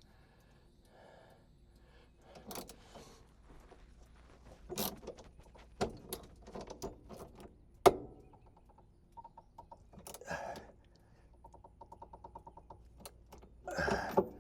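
Hand tools and metal parts clinking and knocking in irregular handling noises, with one sharp knock about eight seconds in. Near the end comes a rapid, even run of small clicks.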